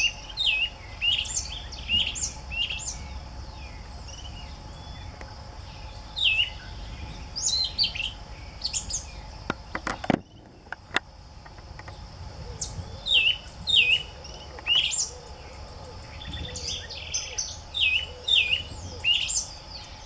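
Small birds chirping: many short, high, quick hooked calls repeated throughout, over a steady high insect-like buzz. A few sharp clicks about halfway, where the sound briefly drops away.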